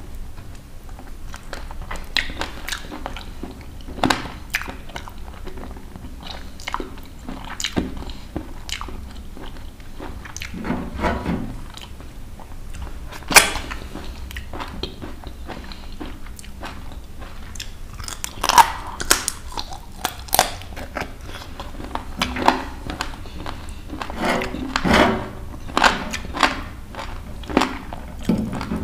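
Close-miked chewing and biting on roasted country chicken: wet mouth sounds with irregular crunches and smacks, the sharpest crunch about halfway through.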